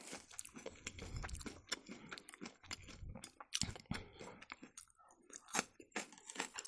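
Close-up chewing of crunchy food: a quick, uneven run of small crunches, with a brief pause about five seconds in.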